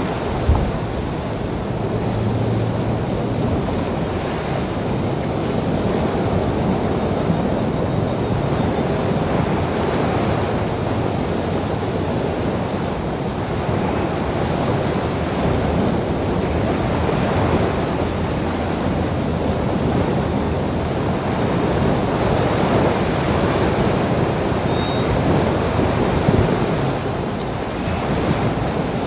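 Sea surf washing on a shore: a continuous rush of water that swells and eases slowly. There is a brief thump about half a second in.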